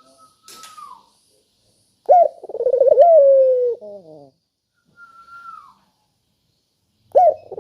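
Dove cooing: a loud, rolling coo that pulses rapidly and ends on a held note, about two seconds in, and a second one starting near the end. Short, faint falling whistles come before each coo.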